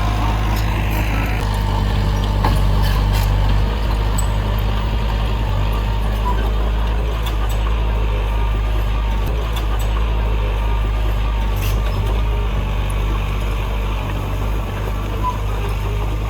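Heavy diesel earthmoving machinery running steadily with a low, even engine drone, a few faint clicks over it.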